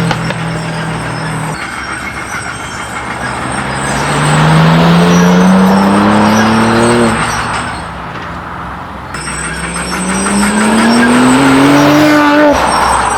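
Tuned car engine and exhaust pulling away under acceleration. It idles briefly, then the note climbs in pitch about three seconds in and falls away. It climbs again in a second pull that cuts off suddenly near the end.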